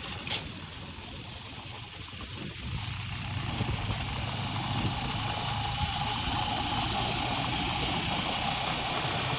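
An engine running steadily at low revs, growing louder about three seconds in and then holding steady.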